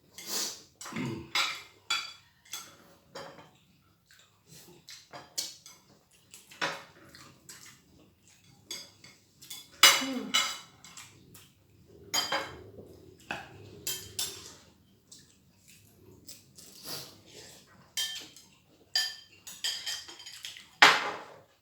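Cutlery clinking and scraping against plates and bowls while eating: irregular sharp clinks and taps, the loudest about ten seconds in and again near the end.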